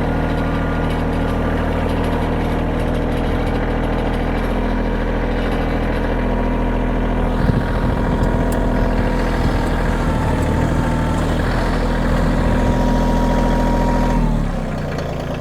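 Kioti tractor's diesel engine running steadily, with a couple of sharp knocks about halfway through; near the end the engine speed drops as it is throttled down.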